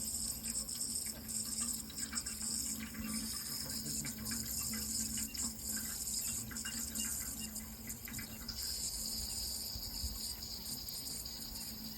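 Water running in a steady, continuous flow, with a faint steady hum underneath.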